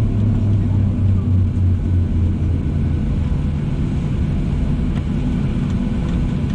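Steady low rumble of a Boeing 737-700 heard inside the cabin, from its CFM56-7B engines and the airframe, after landing. A deep engine hum eases about two and a half seconds in.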